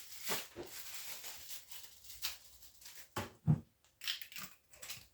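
Handling noises in a kitchen: a few short knocks and clicks with some rustling, the loudest knock about three and a half seconds in.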